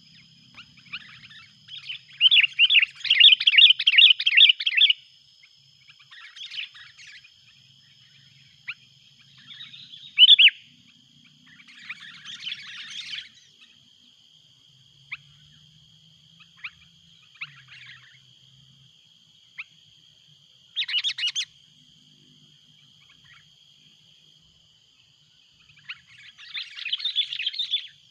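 Sooty-headed bulbuls calling in bursts of rapid, noisy chattering, the loudest and longest burst a few seconds in and more short bursts later, with a faint steady high tone underneath.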